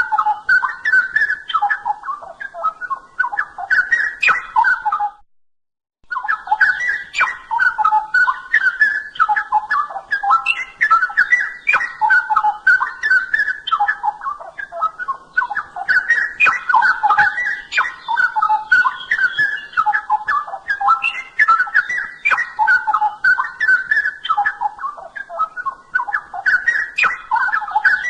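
Straw-headed bulbul (cucak rowo) singing a continuous, rapid, rich warbling song of low, fluty notes. It breaks off briefly about five seconds in, then carries on.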